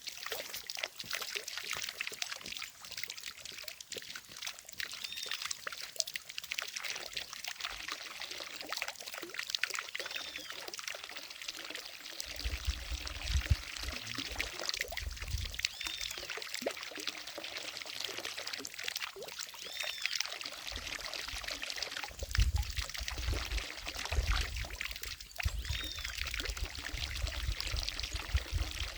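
Water from a fountain falling into a lake, a steady splashing pour. A few short, high, arching chirps come every few seconds, and low rumbles come in around halfway and again near the end.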